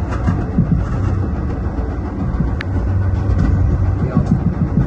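Metra commuter train rumbling, a loud low rumble throughout.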